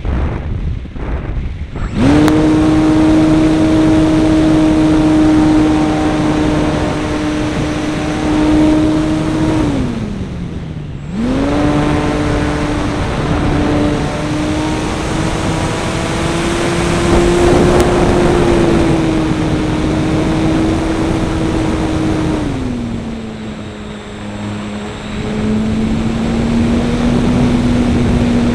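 RC model airplane's motor and propeller heard from the onboard camera, with wind rushing over the microphone. Wind alone at first; about two seconds in the motor comes up to a steady high drone, its pitch dives sharply around ten seconds in as the throttle is pulled back, then climbs again. About twenty-two seconds in it settles to a lower steady drone.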